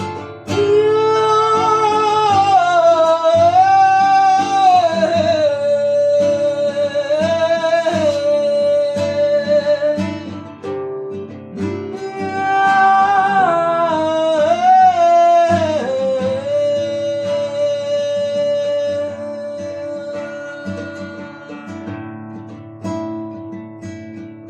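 Strummed acoustic guitar under a singing voice. The voice glides through two long phrases, the second starting about twelve seconds in, and ends on one long held note that fades out, leaving the guitar alone near the end.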